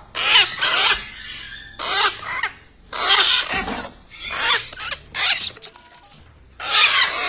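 Repeated animal calls, about seven in all, each roughly half a second long and wavering in pitch, coming about once a second.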